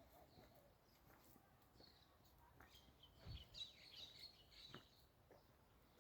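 Faint outdoor ambience with small birds chirping, a cluster of high chirps from about halfway through, and a soft low thump just before the chirps.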